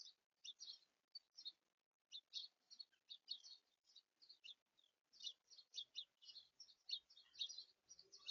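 Small songbirds chirping: a steady run of short, high chirps, several a second, overlapping at times.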